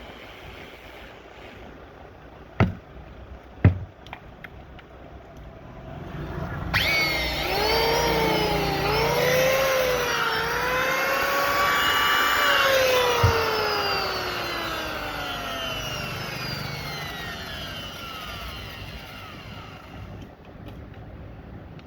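Two sharp knocks, then an electric motor or power tool spins up in three surges of rising pitch, is cut off, and winds down with a long falling whine.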